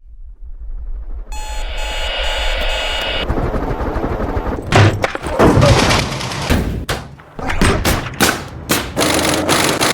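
Layered sound-design montage: a low rumble rises out of silence, a shrill ringing sounds for about two seconds, then a chaotic run of loud bangs and crashes follows.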